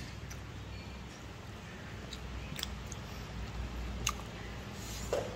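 A person chewing a mouthful of food with the mouth closed, over a steady low room hum, with a few faint clicks.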